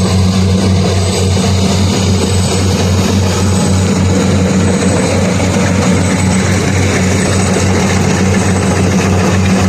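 Kubota DC120X combine harvester running steadily with a loud, even drone.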